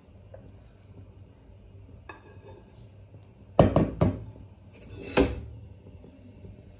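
Kitchenware knocking and clattering: three sharp knocks, two close together about halfway through and a third a second later.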